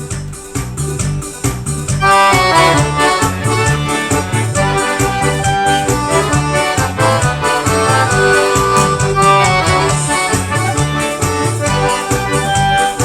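Live forró band playing the instrumental intro of a song: an accordion melody over a bass line and a steady drum beat, with the full band coming in louder about two seconds in.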